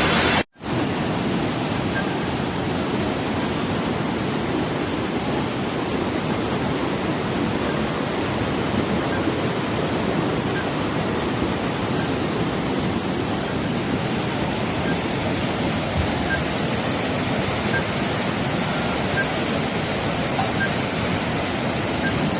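Steady, even rush of water in a heavy downpour. It breaks off for a moment about half a second in.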